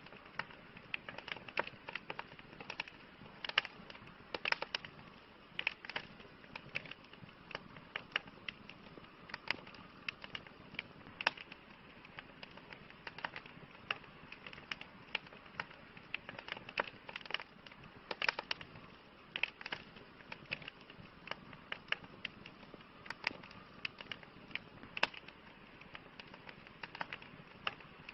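Campfire burning, wood crackling and popping irregularly, several snaps a second over a soft steady hiss.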